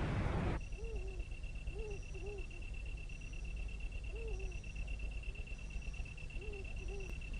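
Night-time outdoor ambience: a steady high insect trill, with short, arching low animal calls repeating every second or so. It starts about half a second in.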